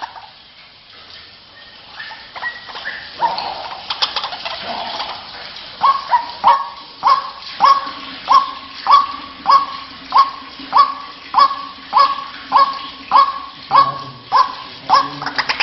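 White-breasted waterhen (ruak-ruak) call used as a bird-trapping lure: a few irregular calls at first, then from about six seconds in a steady run of sharp, repeated notes, about one every 0.6 s.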